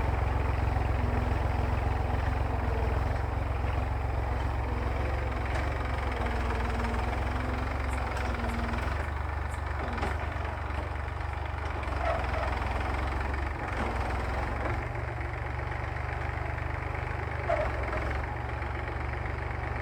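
Massey Ferguson tractor's diesel engine running at a steady speed, a deep, even drone. A faint hum over it fades out about nine seconds in.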